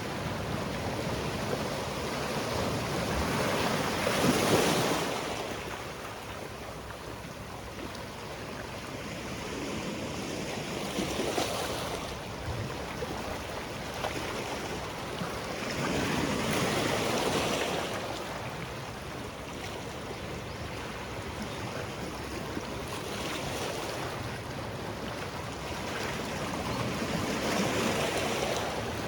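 Sea waves breaking and washing on a rocky shore, in swells every few seconds.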